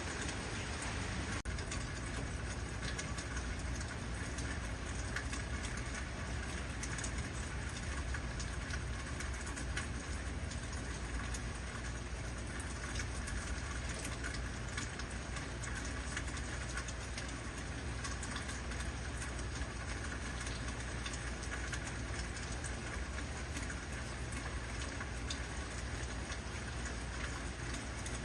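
Heavy rain falling steadily, a dense even hiss of countless drop impacts with fine pattering clicks, over a constant low rumble.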